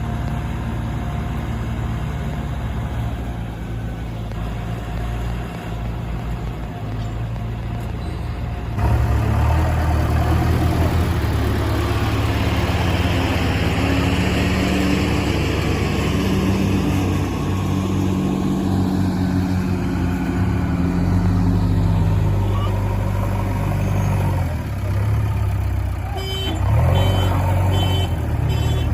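Diesel engine of a JCB 3DX backhoe loader running under load, its pitch rising and falling as it works, with a step up in loudness about a third of the way in. A reversing alarm beeps steadily near the end.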